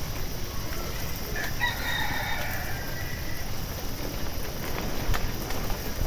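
A rooster crowing once: a single drawn-out call starting about a second and a half in and lasting nearly two seconds, over steady low background noise.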